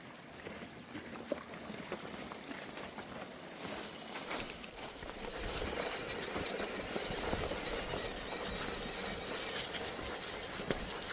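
Bike rolling over a snowy trail: a steady rough noise of tyres and wind, with a quick run of sharp knocks and clicks about four to six seconds in.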